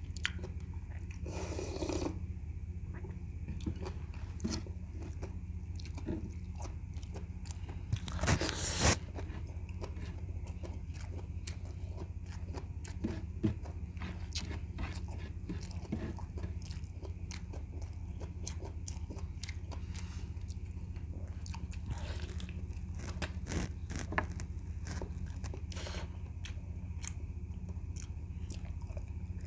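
Close-up eating sounds of goat's feet sinigang eaten by hand: wet chewing and biting with many small mouth clicks, over a steady low hum. There is a louder noisy burst about eight seconds in.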